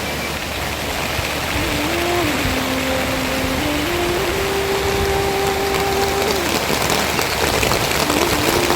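Steady rain falling, an even hiss, with a slow melody of held notes that step up and down running over it.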